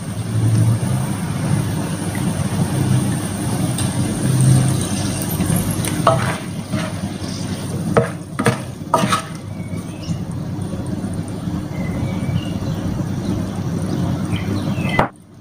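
Chicken, shrimp and vegetables frying with a steady sizzle in a nonstick pan as dark soy sauce goes in and a spatula stirs them. A few sharp scrapes or knocks of the spatula come about six to nine seconds in, and the sound cuts off briefly just before the end.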